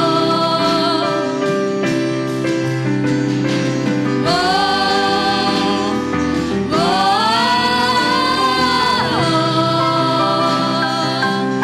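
A worship band plays a slow gospel song under steady held chords. A singer's voice comes in with two long phrases, about four and about seven seconds in.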